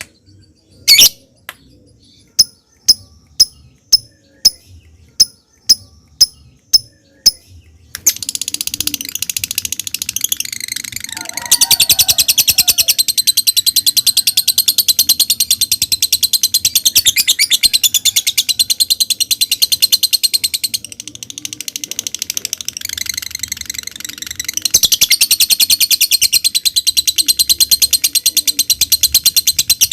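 A lovebird gives single sharp chips about two a second, the 'ngetik' call. About 8 s in it breaks into a long, fast, continuous high chattering trill, the 'ngekek'. The trill grows louder a few seconds later, eases for a while past the middle and comes back loud near the end.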